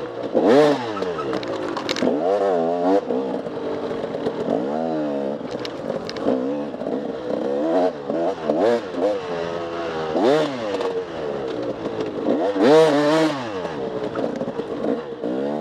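Enduro dirt bike engine revving up and down over and over as the throttle is opened and closed, with scattered short knocks and clatter.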